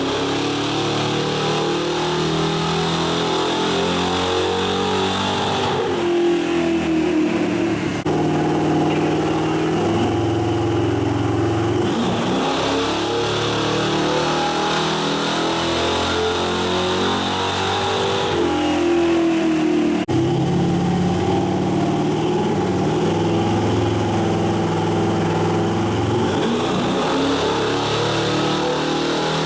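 1973 Ford pickup's engine running hard on a chassis dynamometer, its pitch rising and falling several times as it is revved through dyno runs.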